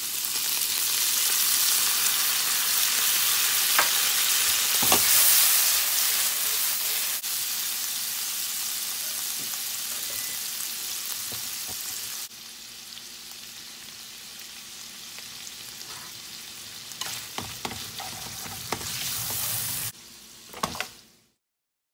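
Thin-sliced beef sizzling in a hot nonstick frying pan as a soy-sauce-based seasoning is poured in, the sizzle loudest for the first few seconds and dropping abruptly about twelve seconds in. Near the end, chopsticks click against the pan a few times as the meat is stirred.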